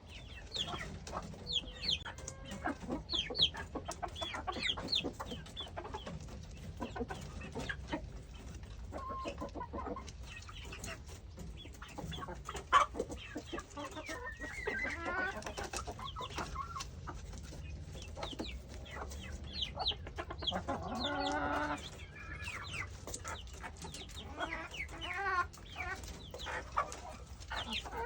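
Chickens clucking, with many short high chirps and frequent sharp taps of beaks pecking at a pumpkin. One longer, drawn-out call comes about three-quarters of the way through.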